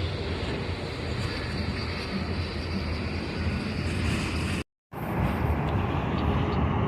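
A passing train's steady low rumble, which cuts out completely for a moment about two-thirds of the way through and then resumes.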